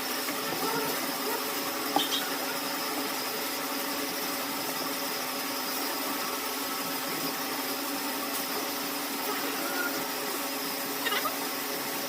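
Lathe running steadily, with a few brief clicks or squeaks from the work about two seconds in and again near the end.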